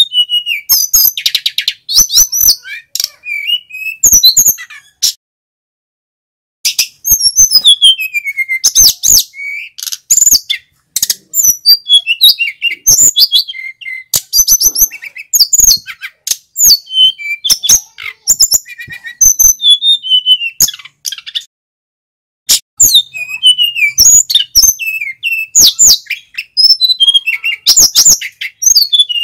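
A male sikatan gunung, a flycatcher, singing a long, loud song of rapid high chirps, trills and whistled glides. The song comes in phrases broken by two short pauses.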